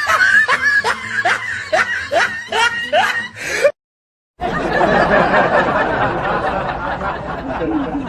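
Laughing sound effects: a quick string of short snickering laughs, each one rising in pitch. After a brief cut to silence, a denser, noisier stretch of laughter follows and fades near the end.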